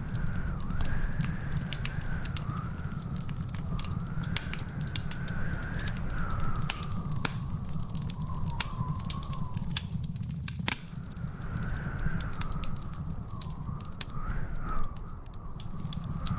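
Wood fire in a fireplace crackling, with frequent sharp pops over a steady low rumble. A faint, wavering whistle slowly rises and falls in pitch underneath.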